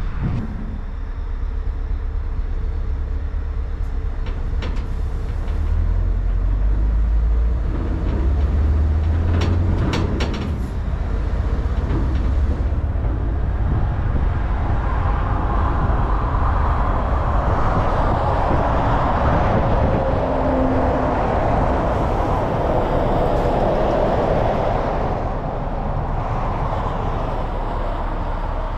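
Scania 770S truck's V8 diesel running on the road: a steady low engine drone with road noise, which swells into a louder rushing noise for about ten seconds past the middle. A few short knocks come in the first third.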